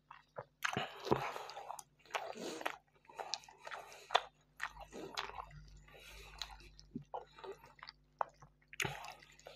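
A person chewing and biting mouthfuls of Iraqi fried meat (qalya) scooped up in flatbread, close to a clip-on microphone: irregular wet chewing sounds with small clicks.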